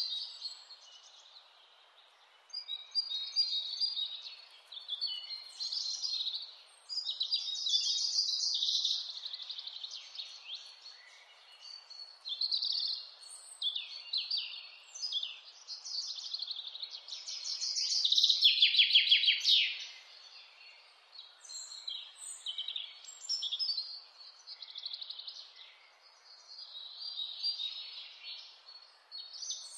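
Wild songbirds singing: a string of short high phrases and chirps, with a louder rapid, falling trill about two-thirds of the way through, over a faint steady outdoor hiss.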